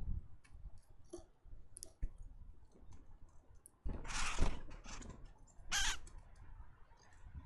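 Small birds at a seed feeder: scattered clicks and taps of beaks and feet on the feeder, with two louder rushing bursts about four and six seconds in.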